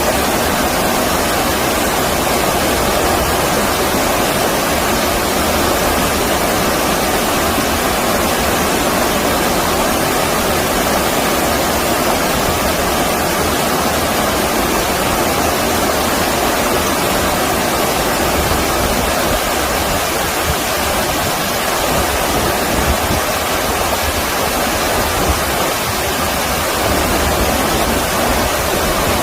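Stream water flowing steadily, a constant even rush with no breaks.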